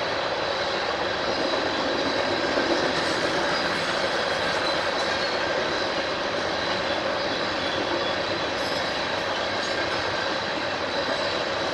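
Railroad cars rolling steadily past on the main line, a continuous rumble of steel wheels on rail with a faint high whine over it.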